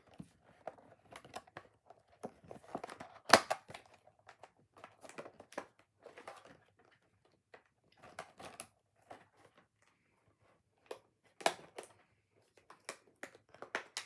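Packaging crinkling and clicking in short irregular spells while a zip-tied makeup brush is worked free of its box, with one sharp snap about three seconds in.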